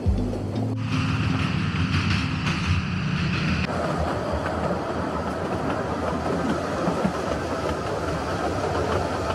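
A 760 mm narrow-gauge train running, with the steady noise of wheels on rails. A high steady tone sits over the running noise for a couple of seconds about a second in.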